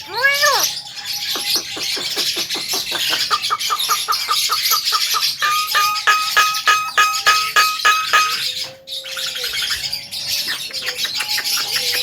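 Javan myna (jalak kebo) singing: two arched, rising-then-falling notes, then a fast, even rattle of clicking notes, about seven a second, for several seconds, followed after a short break by lower drawn-out whistles. A constant high chirping runs underneath.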